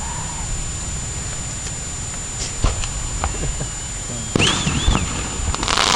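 Fireworks going off: a few sharp pops, a louder bang a little past the middle, and a dense crackling burst near the end, over a steady low rumble.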